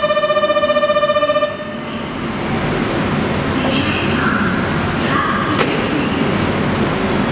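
A rapidly pulsing electronic platform signal tone stops about a second and a half in. An electric limited express train's rumble and rolling noise then builds up along the underground platform, with a sharp click about five and a half seconds in.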